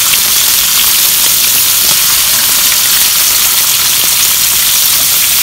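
Bacon, hot dogs, tomatoes and eggs frying on a hot griddle plate: a steady loud sizzle with faint scattered crackles.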